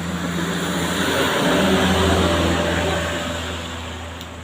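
A truck's engine running over a steady hiss. It grows louder to a peak about two seconds in, then fades away.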